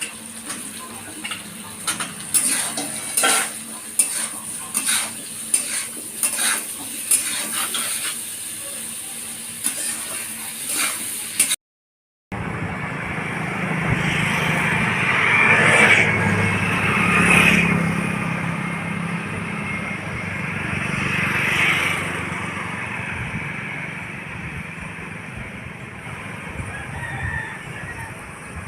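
Potato and raw-banana pieces frying in oil, a steady sizzle with the clicks of a spatula stirring the pan. After a short break the sound changes to a livelier outdoor scene in which a rooster crows a few times.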